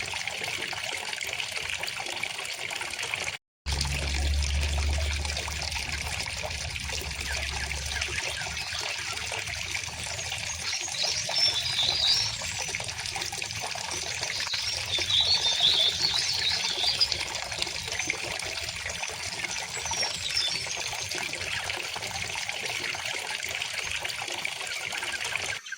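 River water flowing and trickling steadily, with short bursts of bird chirping about eleven seconds in and again around fifteen to seventeen seconds. The sound cuts out completely for a moment about three and a half seconds in.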